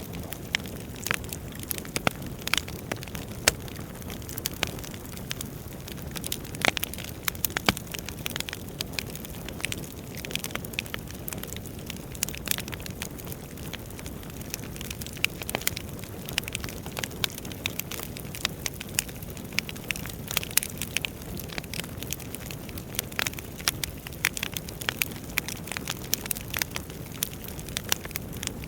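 Wood fire burning in a fireplace: a steady low rush of flames with frequent irregular sharp crackles and pops from the burning logs.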